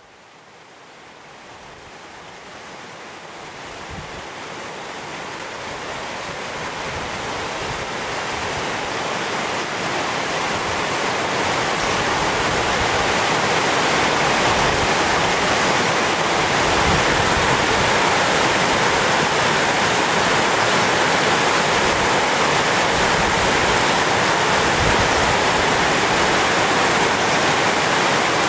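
Orkhon Waterfall falling: a steady rushing roar of water, growing louder over the first dozen seconds and then holding level.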